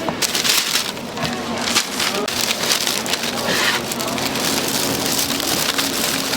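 Hot oil sizzling as glutinous-rice twisted doughnuts deep-fry: a dense, steady hiss full of tiny pops.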